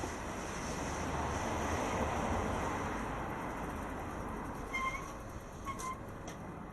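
A passing vehicle's rumble swells and fades in street noise, followed by two short high beeps about a second apart.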